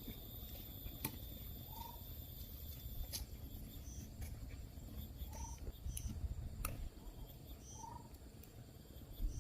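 Forest bird giving a short rising whistled note every two to three seconds, with brief higher chirps in between, over a steady high insect drone that stops about three seconds in. A few faint sharp clicks.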